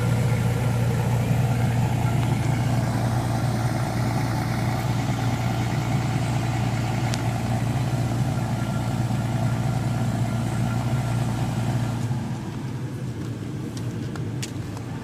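2017 Toyota Tacoma's engine idling steadily just after a cold start, its hum growing a little quieter about twelve seconds in, with a few faint clicks near the end.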